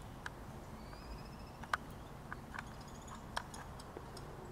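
Quiet outdoor background with a faint, short bird trill about a second in and a few high chirps later, among scattered soft sharp clicks.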